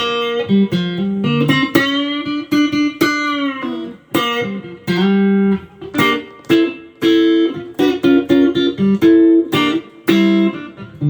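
Electric guitar playing a fast melodic line of single plucked notes, with a long bent note about two seconds in.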